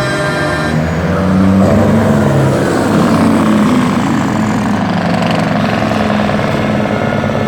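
Engine of a parade truck running loud as it goes by, its pitch rising and falling slightly.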